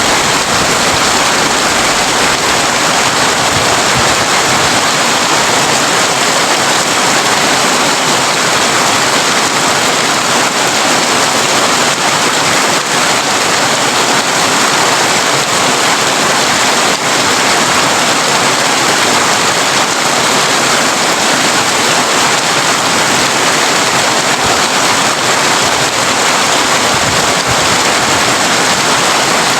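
Heavy rain falling steadily on a tin roof, an even, dense patter.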